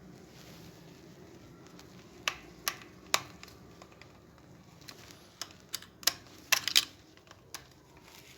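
Sharp clicks and taps of small hard plastic parts being handled and fitted together during hair dryer reassembly: three clicks about two to three seconds in, then a quicker cluster of clicks near the end.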